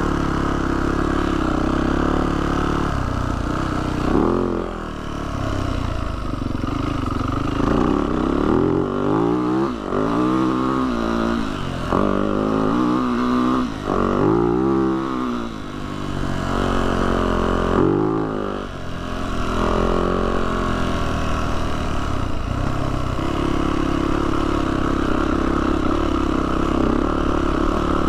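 Yamaha YZ450F dirt bike's single-cylinder four-stroke engine under way on a trail, its engine speed rising and falling again and again through the middle as the throttle is opened and shut, with steadier running at the start and near the end.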